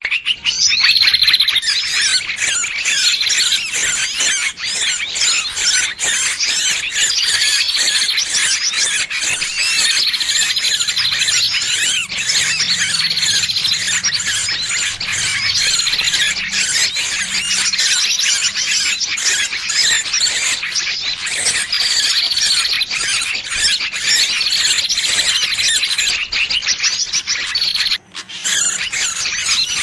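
Distress squeals of a small bird caught and pinched, as played for a bird-lure recording: dense, high chirping with a sharper squealing cry repeating about every two seconds.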